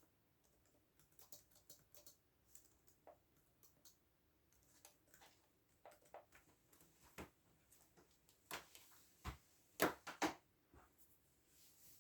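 Computer keyboard typing: irregular, sparse key clicks at a low level, with a few louder keystrokes about nine to ten seconds in.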